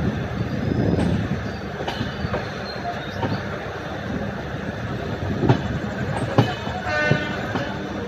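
Passenger train running, heard from on board: a steady rumble with the wheels knocking over rail joints, two sharp knocks in the second half, and a short high-pitched squeal near the end.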